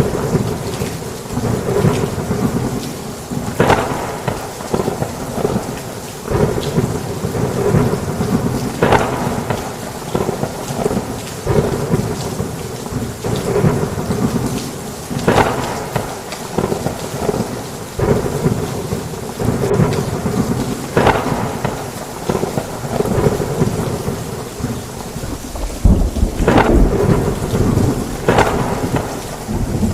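Heavy rain on a roof, a dense steady downpour, with thunder rumbling throughout and a louder rumble near the end.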